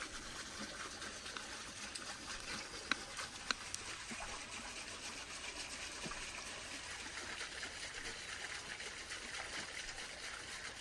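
Steady trickling of running water, with a few faint clicks about three seconds in.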